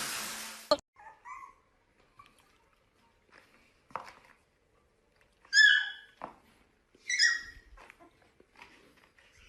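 A puppy giving short, high-pitched yelps and whines, two louder ones a little past halfway and fainter ones earlier. A loud hiss cuts off abruptly less than a second in.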